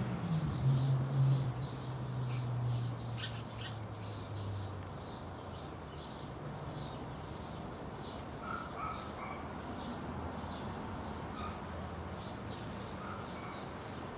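A small bird chirping over and over, short high chirps about three a second. A low steady hum fades out in the first few seconds.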